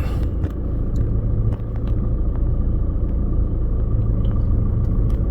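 Car driving slowly, a steady low rumble of engine and road noise with a few faint ticks.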